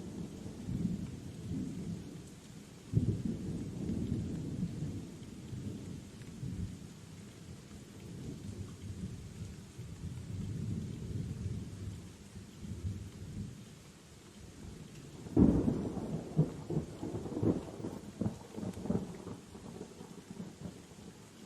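Thunderstorm: rolling thunder over a faint steady hiss of rain. A sharp crack sets off a rumble about three seconds in, and a louder clap around the fifteen-second mark breaks into a series of rumbling peals.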